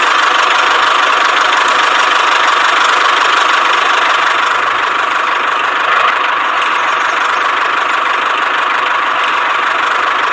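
A small motor running steadily with a dense, even buzz that holds level throughout.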